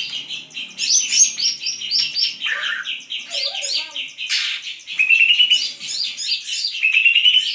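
Green leafbird (cucak ijo) singing vigorously: a fast, unbroken chatter of high notes, with short rising trills near the start, about five seconds in and again near the end.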